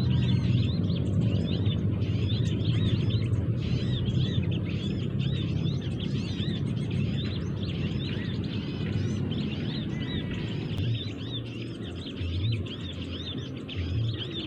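Small birds chirping in a dense, busy chatter of short high chirps, many per second, over a low rumble that eases after about ten seconds.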